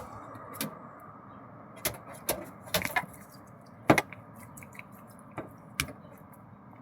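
A bird pecking at a window: sharp, irregular taps on the glass, about eight in all, the loudest about four seconds in.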